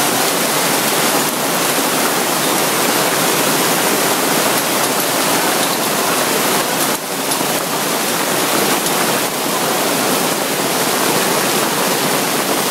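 Torrential rain pouring down: a loud, steady rush of falling and running water.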